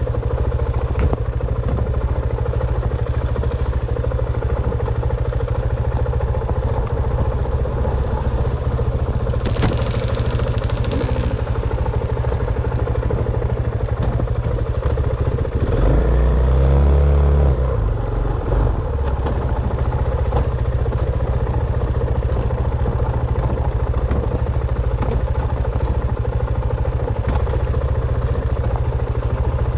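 Dirt bike engine running steadily, with a brief hissing scrape about a third of the way in and a swell in engine speed a little past the middle.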